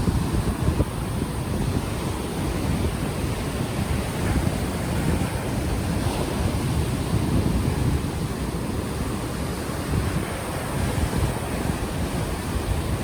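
Ocean waves washing ashore, with gusty wind buffeting a microphone that has no windscreen, a steady deep rumble.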